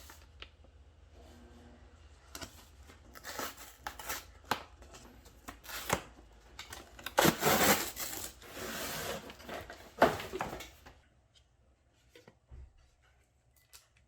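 Rubbing and scraping handling noises with scattered clicks, louder and denser in the second half and ending with a sharp click, after which it goes nearly quiet.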